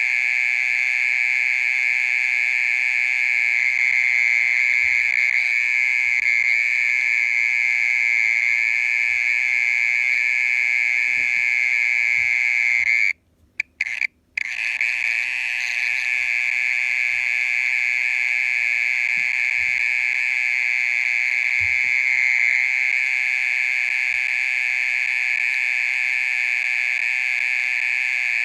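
Mole cricket singing: a loud, continuous, even buzzing trill at one steady pitch, breaking off twice briefly about halfway through.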